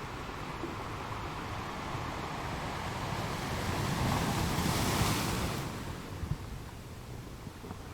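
Ocean waves washing onto the shore, one wave swelling and breaking about four to five seconds in, then receding to a steady wash.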